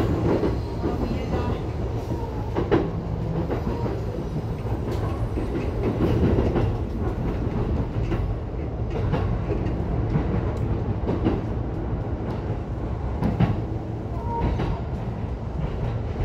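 Keihin-Tohoku Line E233-1000 series electric commuter train running, heard from inside the front car: a steady low rumble with sharp wheel clicks over rail joints and points as it pulls into its terminus.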